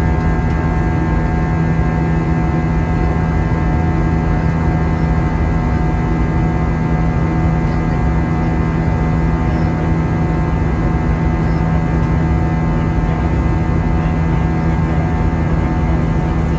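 Steady engine and airflow drone inside the cabin of an Airbus A320 in flight, with a low hum and a few constant whining tones over a rushing noise.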